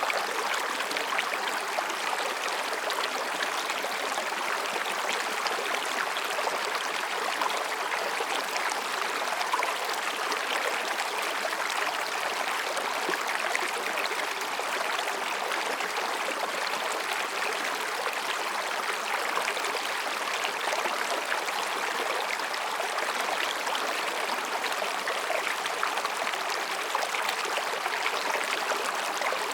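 Mountain stream rushing and babbling over and between rocks, a steady, even flow of water.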